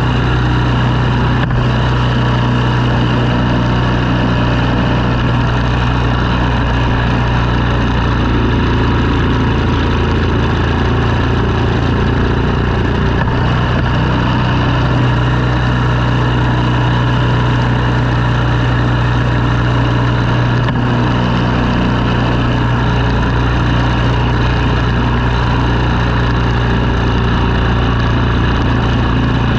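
An engine running steadily at an even speed, a continuous hum with no breaks or revs.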